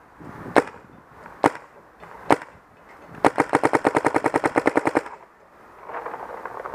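Clone VX paintball marker with a MacDev Shift barrel firing three single shots about a second apart, then a rapid ramping burst of about a dozen shots a second for nearly two seconds.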